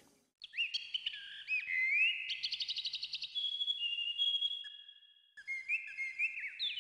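Birds chirping and whistling in short rising and falling notes, with a fast trill about two seconds in and a brief pause near five seconds.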